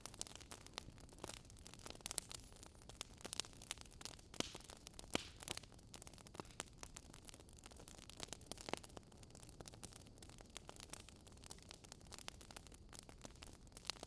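Wood fire crackling faintly: irregular sharp pops and snaps, several a second, over a soft hiss.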